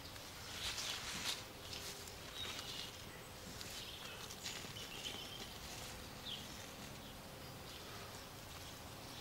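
Loose, light garden soil crumbled by hand and sprinkled into the hole over a set mole trap: faint soft pattering and rustling, busiest in the first second or two.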